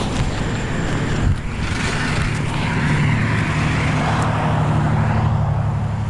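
Steady low hum of a vehicle engine running, over general street noise.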